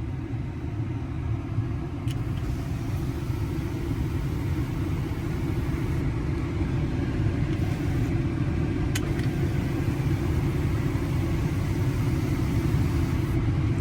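Steady low rumble of the truck's 6.7 L Power Stroke V8 turbo-diesel idling, heard from inside the cab, slowly growing louder, with a couple of faint clicks.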